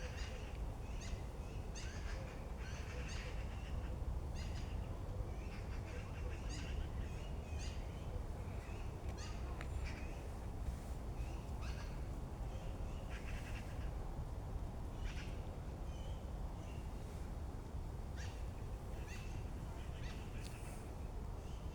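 Birds chirping, many short scattered calls, over a steady low rumble.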